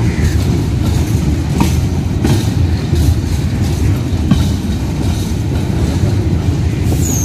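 A train running past, with a steady heavy rumble and the irregular clack of wheels over rail joints.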